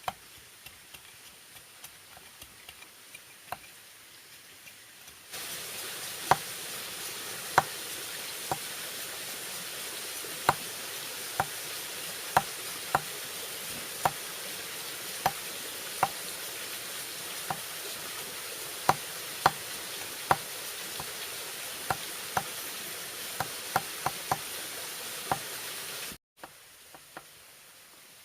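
Irregular sharp knocks and taps of a blade working bamboo, about one or two a second. A steady hiss joins about five seconds in and cuts off suddenly near the end.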